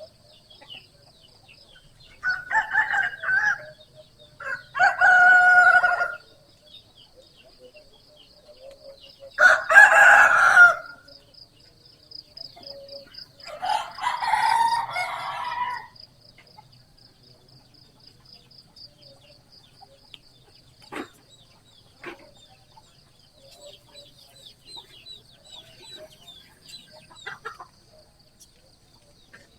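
Village roosters crowing, four loud crows in the first sixteen seconds, over a steady high-pitched pulsing trill.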